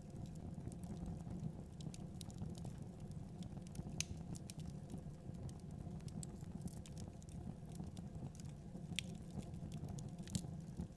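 Wood fire burning in a fireplace: a steady low rumble of the flames with irregular crackles and pops, a few sharper snaps about four, nine and ten seconds in.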